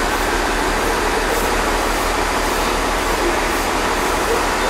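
Train noise: a steady rumble and hiss with a low, even hum underneath, holding level throughout.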